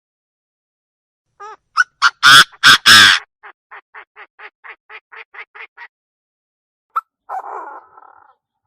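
Chinese francolin calling: a few short notes build to three loud, harsh calls, followed by a run of about a dozen quick clipped notes at about four a second. After a pause there is a single click and a short rasping call near the end.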